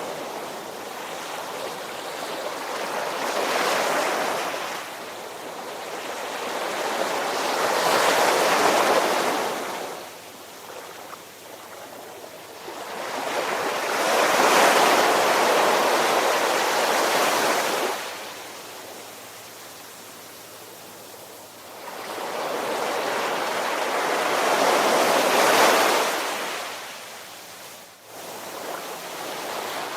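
Ocean waves surging in and washing back, one broad swell of surf noise every five to ten seconds with calmer lulls between.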